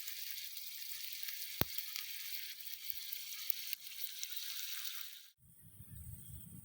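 Onions sizzling as they fry in a pan, a steady crackling hiss with one sharp tick about a second and a half in. The frying cuts off abruptly about five seconds in.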